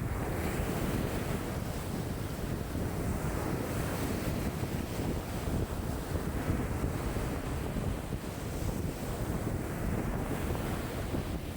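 Wind-driven waves breaking and washing on a lakeshore, with strong wind of about 5 m/s rumbling on the microphone. The sound is a steady, dense wash that swells and eases gently.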